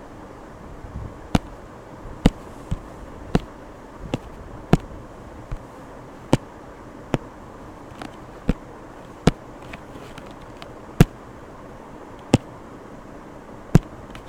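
A series of sharp knocks at uneven intervals, roughly one a second, over a steady hiss.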